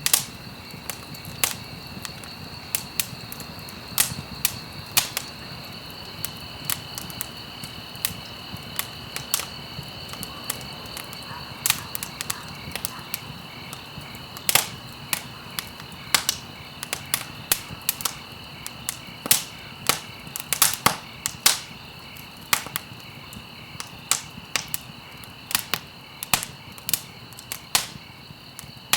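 Campfire crackling: irregular sharp pops and snaps of burning stalks, sometimes several close together, over a low steady hiss. Two steady high-pitched tones run underneath.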